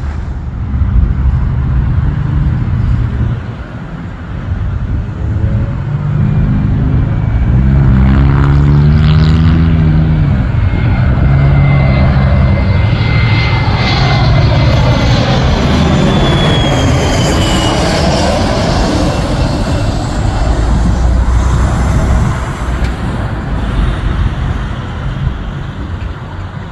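Small business jet passing low overhead on its landing approach: a loud, steady engine rumble with a turbine whine that falls in pitch as it goes by, about two-thirds of the way in.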